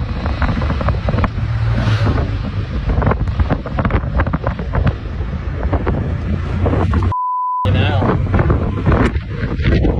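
Excited voices over vehicle rumble and wind buffeting on the microphone. About seven seconds in, one word is censored by a short bleep, a steady beep tone with all other sound muted.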